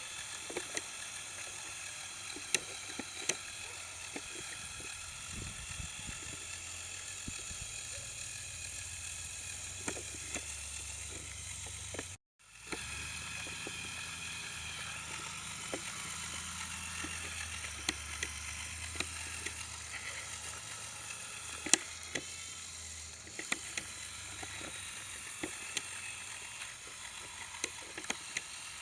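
Small electric motors and plastic gears of a Lego Technic RC trial truck whirring as it crawls over rough ground, with many scattered clicks and ticks from the drivetrain and the wheels on the terrain.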